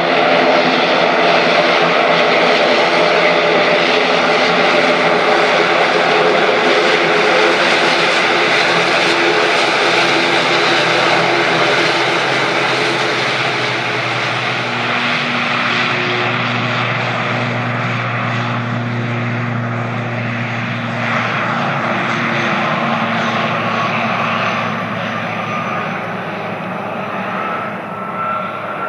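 Airplane engines running loud and steady, several steady hums over a broad roar. The roar eases slightly through the second half, and a whine rises in pitch near the end.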